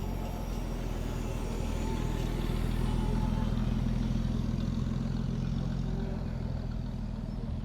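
A car engine running with a low, steady rumble that grows louder for a few seconds and then eases off.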